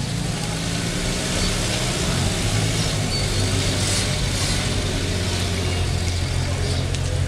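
Vintage car's engine running steadily at low revs as the car rolls slowly past, a low even engine note.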